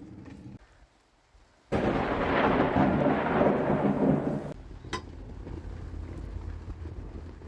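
A thunderclap in a rainstorm: a sudden loud crash and rumble lasting about three seconds that cuts off abruptly, followed by quieter, steady rain.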